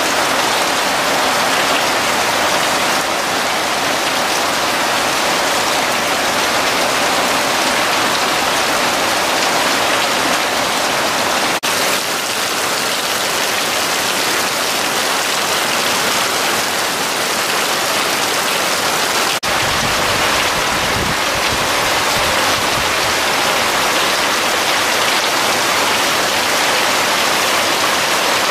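Torrential rain pouring steadily onto leaves and a tiled roof, an even, dense hiss of a cloudburst-like downpour.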